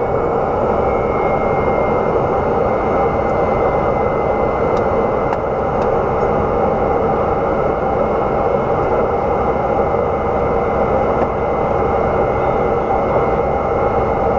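Cessna Grand Caravan C208B's Pratt & Whitney PT6A turboprop engine and propeller running steadily: a dense, even rush with a thin high whine on top.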